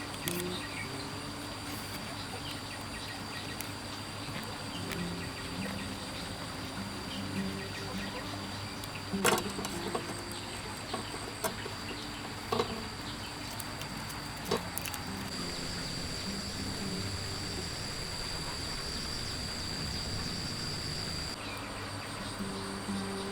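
Steady high-pitched drone of insects, louder for about six seconds past the middle, with a few sharp knocks scattered through it.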